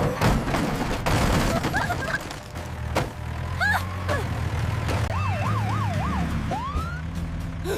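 Police siren wailing up and down several times about five seconds in, then a rising sweep, over a steady low rumble with a few knocks.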